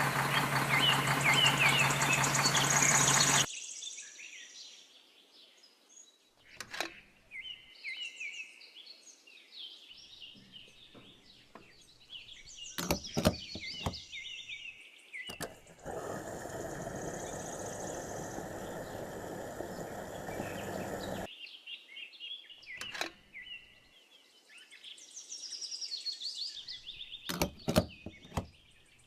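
Small birds chirping in short repeated calls, with a few sharp clicks and a stretch of steady hiss partway through. The first few seconds are covered by a louder, denser sound that cuts off suddenly.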